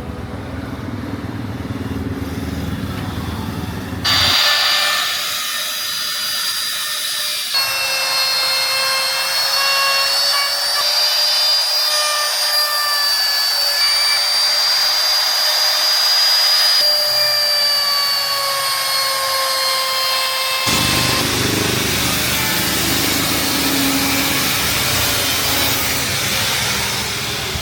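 Power carving tool working wood: a motor whining steadily over the hiss of grinding, with sudden changes about four seconds in and again near the end.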